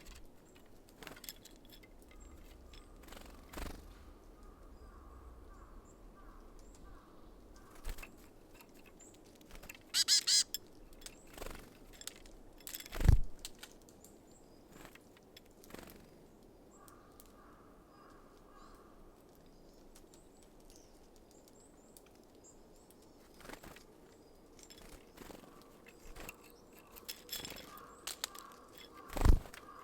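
Small wild birds at a feeder: scattered sharp taps and knocks, the loudest two about 13 and 29 seconds in, with a short burst of high chirping about 10 seconds in.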